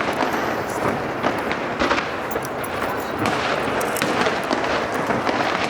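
Fireworks display: a steady crackle of many sharp pops and bangs overlapping, with a hiss of crowd noise underneath.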